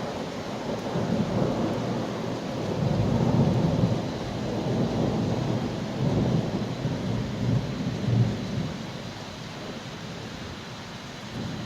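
Thunder rolling over steady rain, in long low rumbles that swell and fade several times and ease off near the end.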